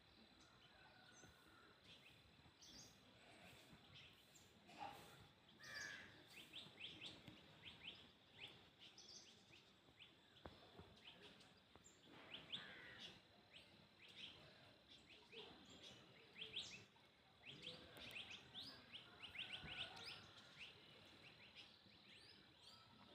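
Faint, frequent short bird chirps over a quiet background, with a steady faint high-pitched tone underneath.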